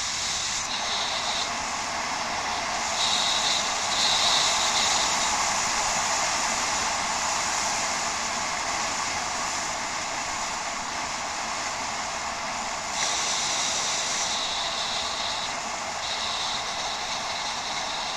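Steady rushing noise from a bicycle ride off-road: tyres rolling over rough ground and air rushing past a head-mounted action camera. It swells a little a few seconds in and again about two-thirds of the way through.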